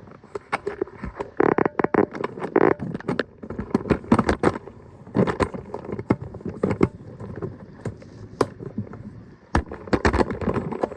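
Irregular clicks, knocks and scraping of objects being handled, with no steady rhythm.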